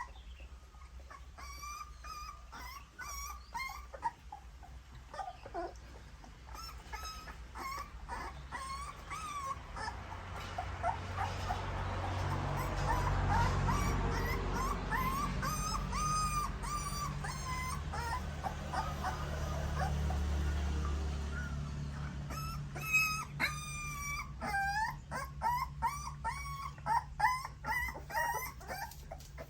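Nursing puppies whimpering and squealing while suckling at their mother, in many short, high-pitched squeaks that come thickest near the start and again near the end. A low rumbling noise swells up through the middle under the squeaks.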